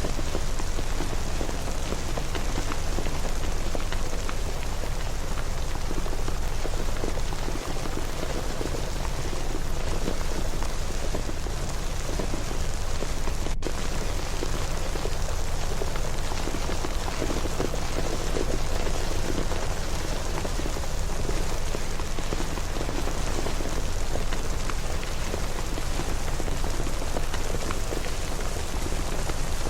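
Steady, even rainfall, a dense patter of drops with no breaks or thunder.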